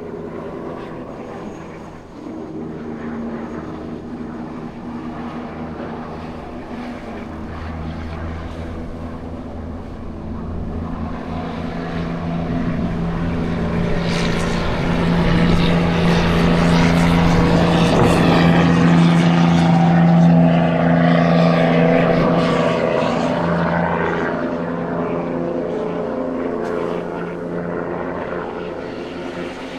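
Heavy truck's diesel engine droning, swelling steadily louder to a peak about two-thirds of the way through, then easing off.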